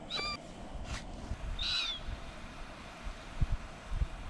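A bird calling: short, high calls that slide down at the end, two in a row about a second and a half apart. Over a low background rumble, with two brief low thumps near the end.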